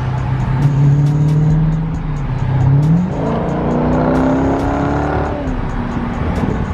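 Car engine under acceleration, its pitch holding steady and then climbing for a couple of seconds from about three seconds in before easing off near the end.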